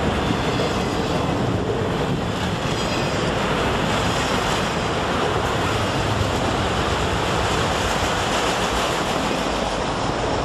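Freight train of enclosed autorack cars passing at speed: a steady, loud rushing noise of wheels and air, with wind buffeting the microphone.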